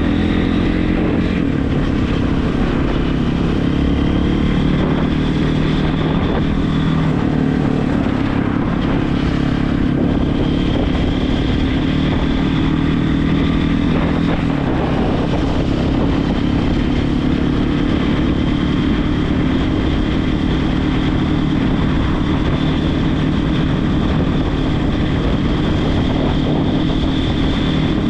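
Regulmoto TE enduro motorcycle engine running steadily under way, its pitch shifting only a little.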